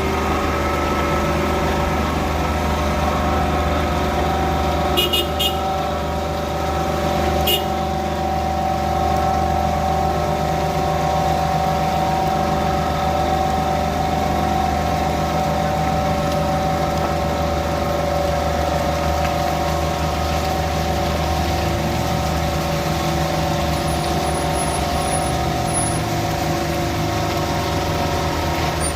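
Heavy diesel engine running steadily at a constant speed, with a few short high clicks or squeaks about five and seven and a half seconds in.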